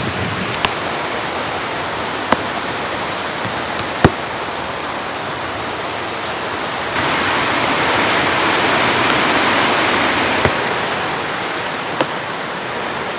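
Heavy rain falling steadily, with scattered sharp taps of single drops; it grows louder for about three seconds past the middle.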